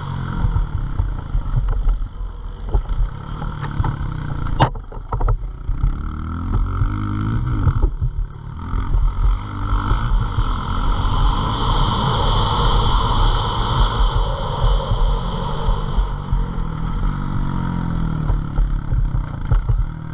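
Pit bike engine running and rising and falling in revs, under a heavy rumble of wind buffeting the microphone, with one sharp click about four and a half seconds in.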